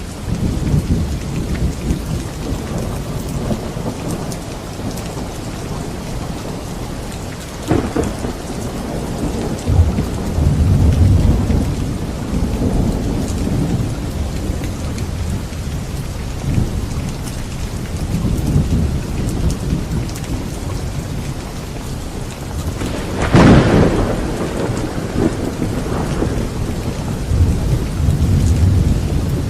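Steady heavy rain with rolling thunder: low rumbles come and go throughout, with a sharp crack about eight seconds in and the loudest clap, a crack followed by a rumble, near the last quarter.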